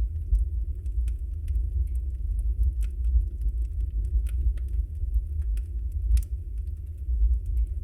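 Wood fire burning in a fireplace: a steady low rumble of the flames with scattered sharp crackles and pops from the logs, one louder pop about six seconds in.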